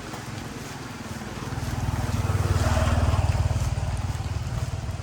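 A motor engine passing by: a low, fast-pulsing engine note grows louder from about a second in, peaks around three seconds in, then eases off.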